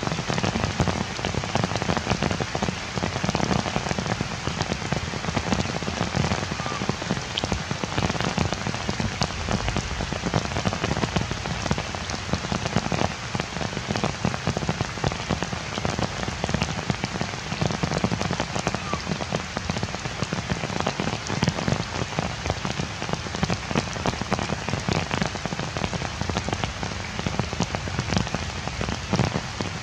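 Heavy rain falling steadily on forest leaves, a dense even hiss with countless separate drops ticking through it.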